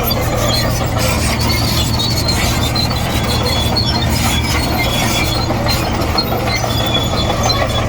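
Komatsu D58E crawler bulldozer working: its diesel engine gives a steady low drone, and the steel tracks squeal and squeak in short, repeated high notes.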